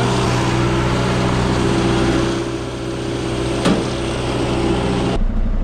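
Truck engine running steadily, with one sharp click about two-thirds of the way through; the sound changes abruptly a little before the end.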